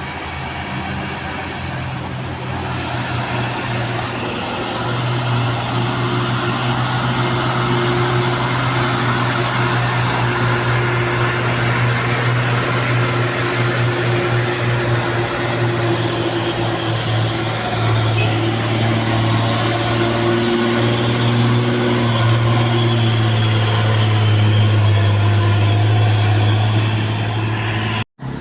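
Heavy truck engine running steadily with a low hum, growing louder a few seconds in and holding, then cutting off abruptly near the end.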